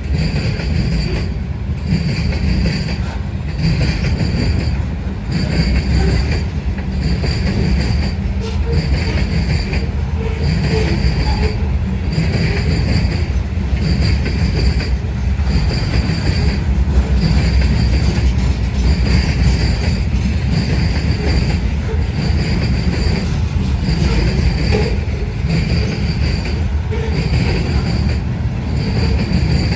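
Herzog ballast train's freight cars rolling past on the rails, a steady heavy rumble with a high-pitched ringing from the wheels that comes back about once a second.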